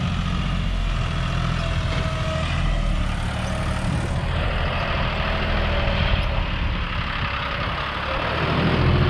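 John Deere 5065E tractor's diesel engine running steadily, a low, even engine note with a slight rise in level near the end.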